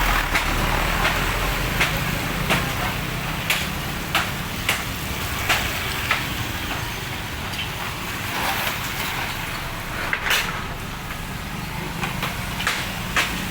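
Strong wind blowing and rumbling on the microphone, with irregular sharp snaps and knocks, about one or two a second, from wind-battered market stalls.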